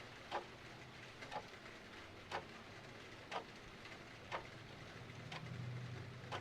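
Clock ticking about once a second, each tick followed by a fainter one, over a steady hiss of rain. A low rumble swells near the end.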